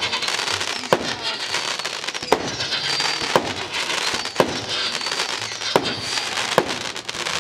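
Fireworks going off: a sharp bang about every second, with crackling between the bangs.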